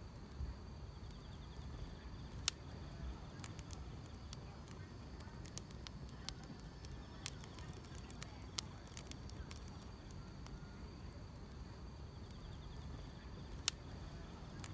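Wood fire crackling, with scattered sharp pops (two louder ones, a couple of seconds in and near the end), over the steady high chirring of crickets and a low rumble of the flames.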